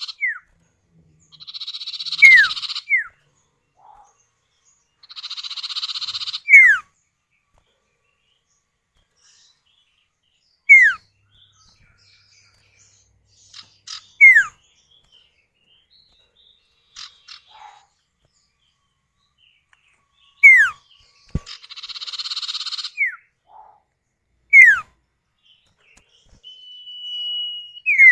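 Common iora (sirtu or cipoh) male and female calling back and forth: sharp whistles that slide downward, alternating with harsh buzzy churrs about a second long. Near the end comes one held, even whistle that drops at its close.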